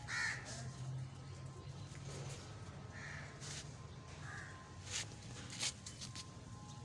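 A bird calling three times, once at the start and twice more around three to four and a half seconds in, over a steady low hum, with a few sharp clicks in between.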